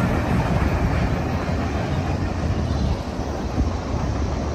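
Freight train cars rolling away on the rails, a steady low rumble that fades slowly as the end of the train moves off.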